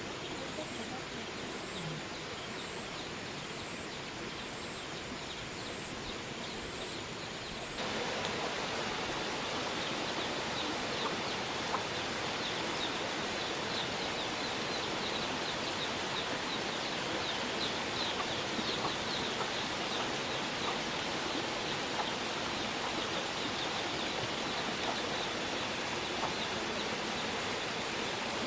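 Steady outdoor hiss with no clear single source. Over the first eight seconds a regular high chirp repeats about twice a second. About eight seconds in the sound cuts abruptly to a louder, fuller hiss with scattered quick high ticks and a faint thin tone.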